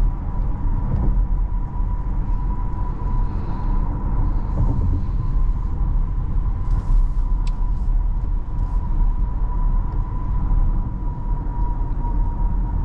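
Cabin noise of a 2024 Porsche Cayenne on the move: a steady low rumble of tyres on wet road and the engine, heard from inside the car, with a faint steady high tone and a few light clicks.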